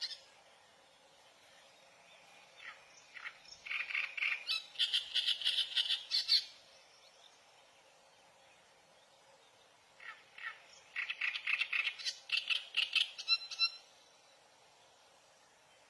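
A bird calling in two bouts of rapid, repeated chattering notes, each lasting about three seconds, with a pause of a few seconds between them.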